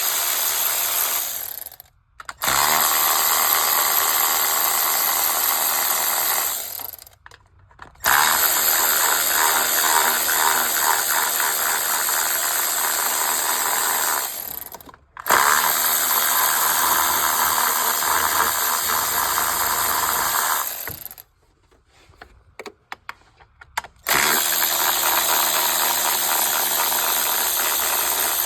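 A ratchet backing out the 8 mm intake manifold bolts: five stretches of steady, rapid ratcheting, each a few seconds long, with short breaks between.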